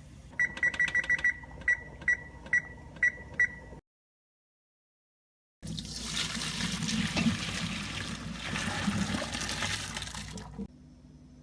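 Electronic keypad beeps from a household appliance: five quick beeps, then five single beeps spaced about half a second apart. After a break, about five seconds of steady running water.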